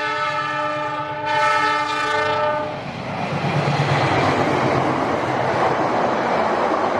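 A KAI diesel-electric locomotive sounds its horn, a multi-note chord held for about three seconds and growing louder about a second in. Then the locomotive and its passenger carriages pass close by at speed, with a steady rushing clatter of wheels on the rails.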